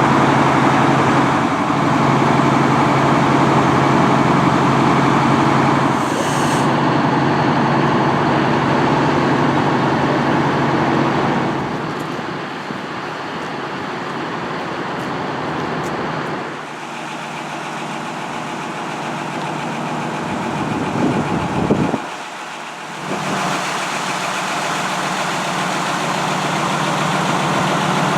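Fire apparatus engine running steadily, a low, even drone that eases off somewhat partway through and drops out briefly near the end.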